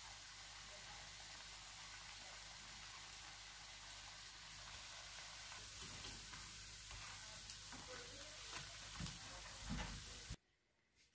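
Breaded chicken nuggets sizzling steadily in hot oil in a frying pan, with a few knocks of a utensil in the pan in the second half as they are turned and lifted. The sizzle cuts off abruptly near the end.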